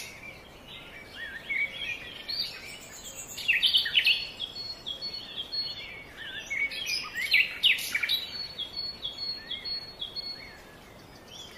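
Birds chirping and singing in dense scrub: many quick chirps and short sweeping notes, busiest about a third of the way in and again two-thirds through, over a faint background hiss.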